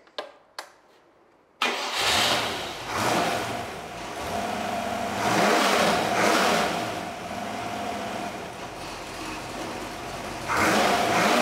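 A rebuilt 4.6-litre Rover V8 on an engine test stand catches suddenly after a couple of small clicks and runs, blipped several times by hand at the carburettor throttle. It sounds good apart from an exhaust rattle, which the builders put down to the exhaust pipe going out the door.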